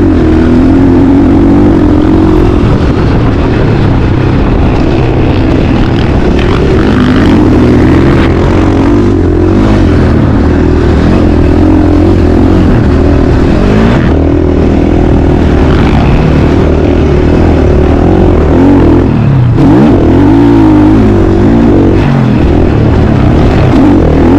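Motocross bike engine running hard as it is ridden, its pitch rising and falling again and again as the throttle opens and closes, over a loud, steady low rumble.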